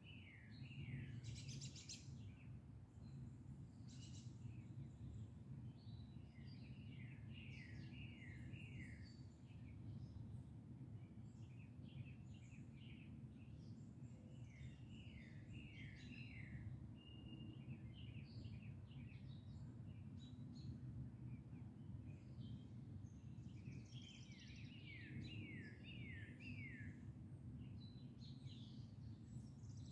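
Songbirds chirping faintly, with runs of four or five quick falling notes several times over, and scattered higher chirps, above a steady low background rumble.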